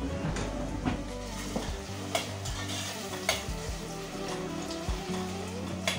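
Food sizzling as it fries in a stainless steel pot while a metal spoon stirs it, with a few sharp clinks of the spoon against the pot.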